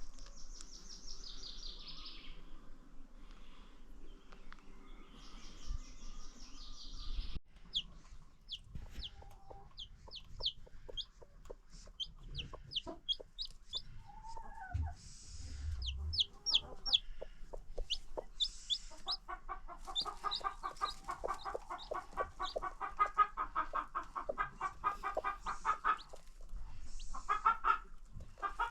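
Chickens calling: many short, high, falling peeps, like baby chicks, then a long run of rapid clucking about two-thirds of the way through.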